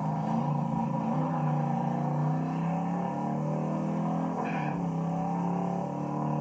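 Big-block V8 muscle car engines running hard at high revs under acceleration, the pitch dipping and recovering about four and a half seconds in as at a gear change.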